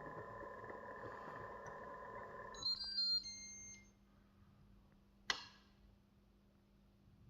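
A steady hiss-like noise that stops about two and a half seconds in, then a short electronic chime of several high beeps stepping in pitch, likely from the single-serve coffee maker's control panel. A single sharp click follows a couple of seconds later.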